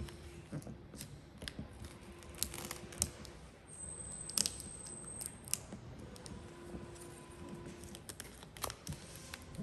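Gloss black vinyl wrap film being worked by hand around a car door handle: faint crinkling and scratching with scattered small clicks. A thin high whine sounds for about two seconds in the middle.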